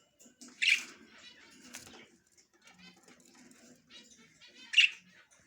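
Budgerigars chattering, with two loud short calls, one about a second in and one near the end.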